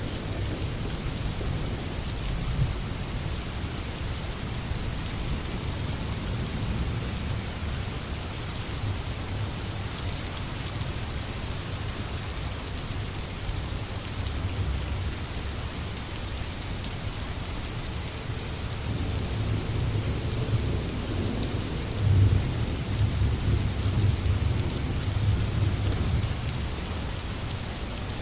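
Steady forest rain falling and pattering on surfaces, over a low rumble that swells in the last third and is loudest around two-thirds of the way through.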